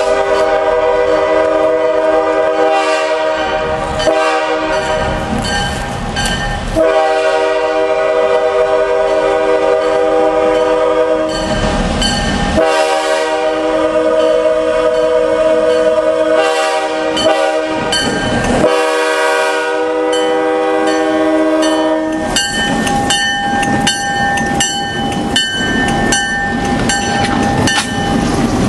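Arkansas Midland locomotive 703's multi-note air horn sounding in a series of long, loud blasts. After about 22 seconds the horn gives way to a bell ringing in quick, steady strokes as the train passes.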